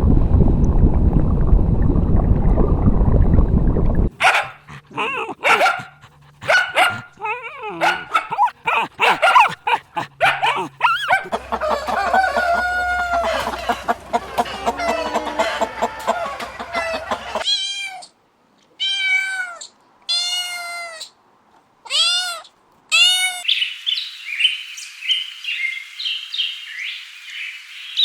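Domestic cat meowing: five short separate meows in the second half, after a loud rumbling noise in the first four seconds and a run of other animal calls.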